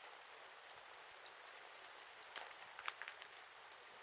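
Wood campfire burning: a steady soft hiss with scattered sharp crackles and pops, a few louder pops a little past the middle.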